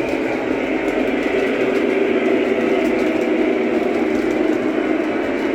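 Train running, a steady continuous noise with a few faint ticks.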